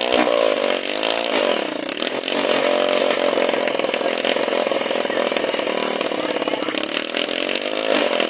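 Small helicopter's motor running with a high buzz, its pitch swinging up and down in the first two seconds and again near the end, steady in between.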